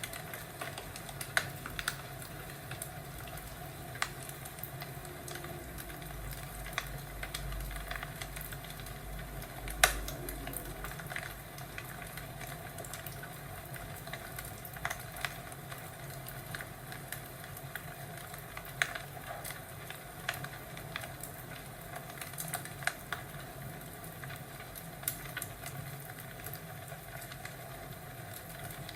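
Crackling fireplace fire: a steady hiss with irregular sharp pops and snaps, the loudest about ten seconds in. A low rumble sits under it for a few seconds before that pop.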